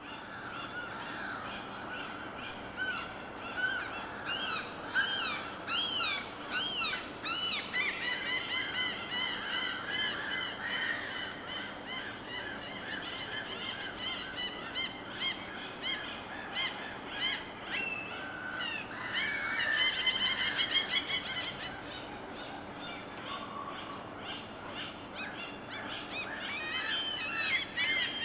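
Birds calling over a steady background wash. Many short, arching calls repeat rapidly and overlap, densest in the middle and again near the end.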